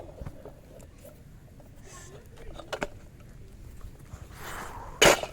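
A quiet stretch of faint scattered clicks and rustling, then one loud, sharp clack near the end.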